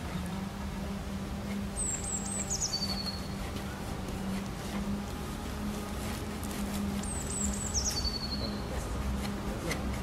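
A small songbird singing twice, about five seconds apart: each song is a quick run of high notes falling step by step, about a second long. Under it runs a steady low hum with a low rumble.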